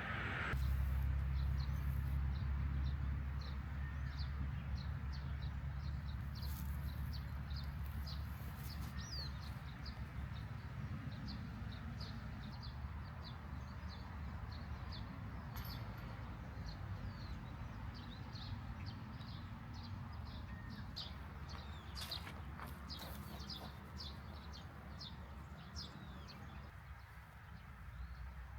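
A bird calling in a long series of short, high chirps, two or three a second, over a low rumble. A few brief knocks come about three quarters of the way through.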